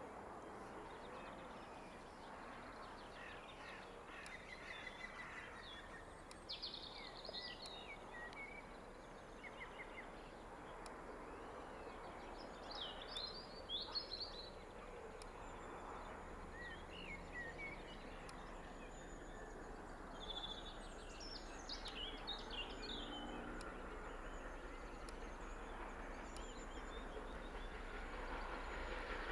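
Birds chirping and calling over a steady hiss of background noise. Over the last few seconds a low rumble slowly grows: the steam train approaching through the tunnel.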